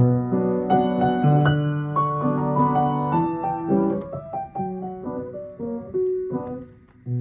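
Piano playing: full, held chords for the first four seconds or so, then sparser single notes, with a low note struck near the end.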